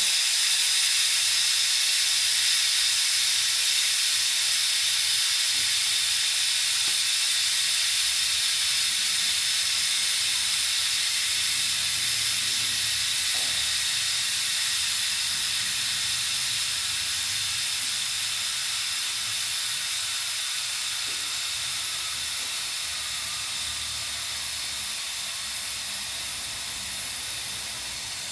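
Pressure cooker on a wood-fired stove letting off a steady, high hiss of steam through its valve, slowly getting quieter.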